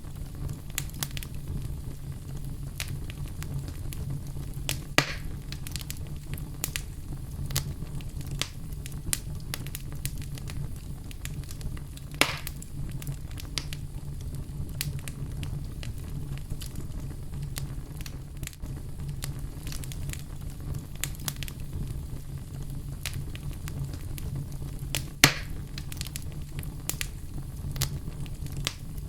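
Wood fire in a fireplace crackling steadily, with a low rumble of the flames under scattered small pops. Three louder snaps come about five, twelve and twenty-five seconds in, the last the loudest.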